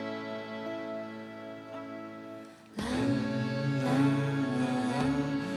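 Live band music: a held chord fades down to a brief lull, then the full band comes back in about three seconds in, louder, with a moving melody line over it.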